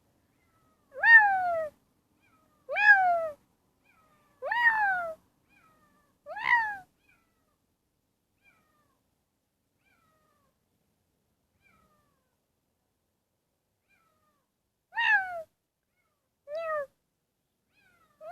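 Domestic cat meowing, six short meows that each rise and then fall in pitch: four about two seconds apart, a long pause, then two more near the end.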